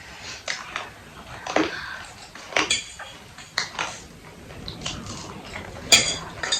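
Cutlery clinking against dishes while eating: irregular short clinks about once a second, the sharpest one near the end.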